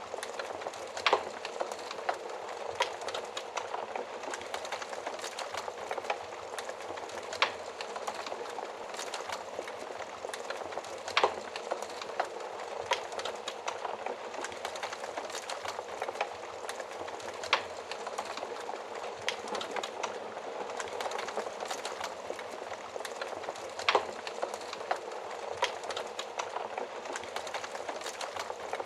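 Wood fire burning in an oven: a steady hiss of flames with sharp crackles and pops every few seconds.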